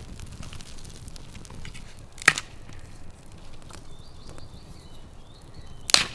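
Dry wood crackling and snapping as a campfire is got going, with small ticks throughout and two loud, sharp snaps, about two seconds in and near the end.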